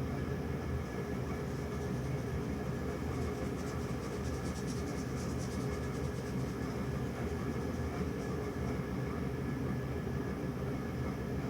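A steady low rumble that keeps an even level, with a faint flickering hiss above it for a few seconds in the middle.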